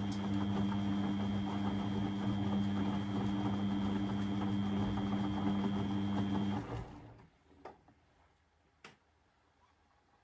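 Beko washing machine running with a steady mechanical hum and a thin high whine. It stops about seven seconds in, and two short clicks follow.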